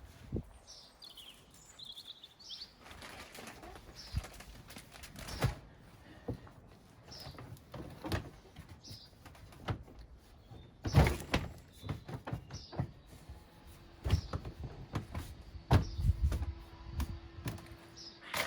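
Small garden birds chirping in short, scattered calls, with occasional knocks and thumps of food and feeders being handled, the loudest about eleven seconds in.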